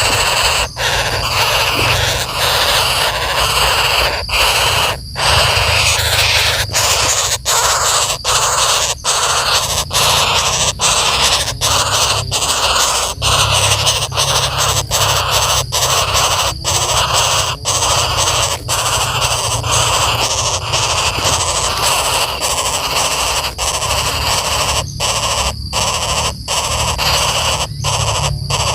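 Woodpeckers giving loud, harsh, continuous squawking calls, an agitated alarm reaction to their nest being disturbed, over a low rumble.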